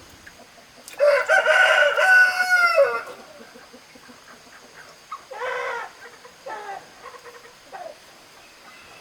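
A rooster crowing once, a loud call of about two seconds that drops in pitch at the end, followed a couple of seconds later by a few shorter, quieter calls from the chickens.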